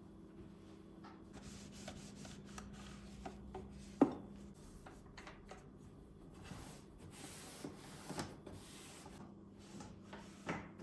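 Rubbing strokes against a hard surface, typical of wiping or scrubbing while cleaning, with small clicks and a sharp knock about four seconds in.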